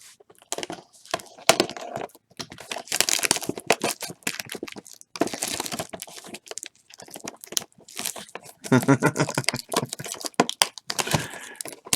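Plastic and foil card packaging crinkling and tearing in irregular crackles as a box of football trading cards is opened and unwrapped.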